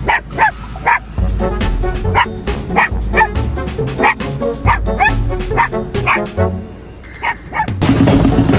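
A dog yipping over and over in short, high-pitched barks, a dozen or so in quick succession, over background music. Near the end the sound cuts abruptly to a louder, steady noise.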